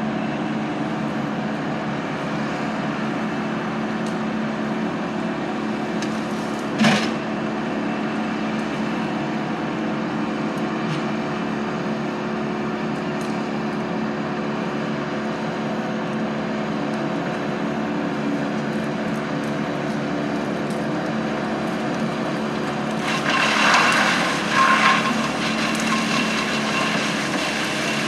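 Engine of heavy equipment running steadily at a constant hum, with one sharp knock about seven seconds in. It grows louder and rougher for a couple of seconds near the end.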